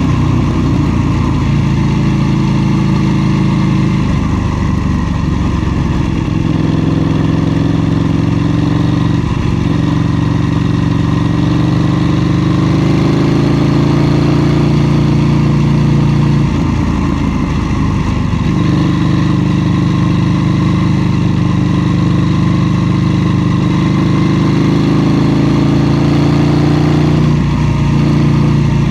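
KTM 790 Duke's parallel-twin engine running under way, the revs climbing and then dropping off briefly several times.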